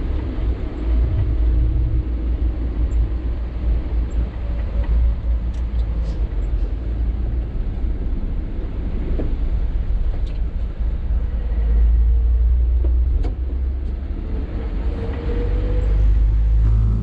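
Sany 6x4 dump truck driving on the road: a steady low engine and road rumble, with a few sharp clicks or rattles and a faint rising whine near the end.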